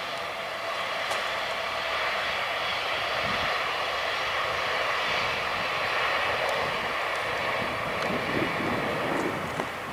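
Two coupled regional multiple-unit trains passing at a distance: a steady engine and rolling noise that swells slightly through the middle and eases off near the end.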